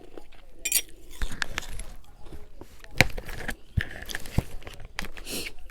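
A person biting and chewing refrozen freezer and humidifier frost, a run of irregular sharp crunches, the loudest about three seconds in.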